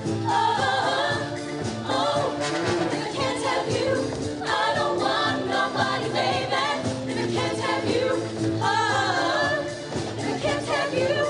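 Show choir singing in full voice, with a musical backing under the voices.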